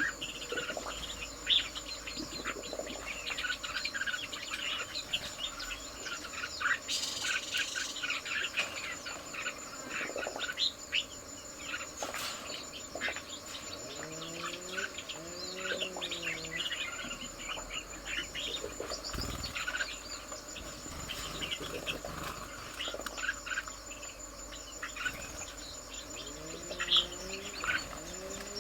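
Birds chirping in a garden: many short chirps over a steady, high-pitched insect drone. A few low, curved calls come in around the middle and again near the end.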